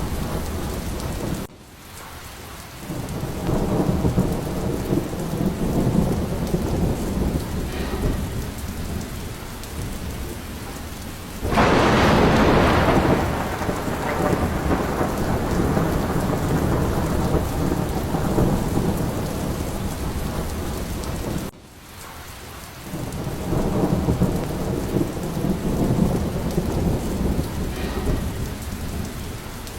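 Steady rain with rolling thunder rumbling throughout. A sharp, loud thunderclap breaks about a third of the way in and dies away over several seconds. Twice the sound drops away abruptly and the rumble swells back up.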